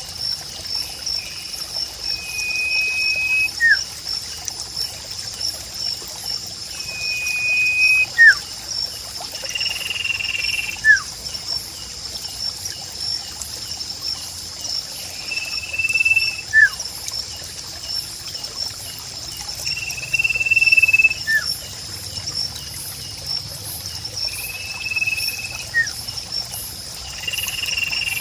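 Sirpu bird calling, a short level whistle followed by a quick falling note, repeated about every four to five seconds, seven times. Under it a steady pulsing high insect trill and trickling water.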